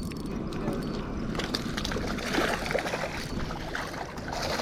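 Wind on the microphone and water lapping against a small jon boat, a steady rushing noise with faint irregular ticks and splashes in the middle.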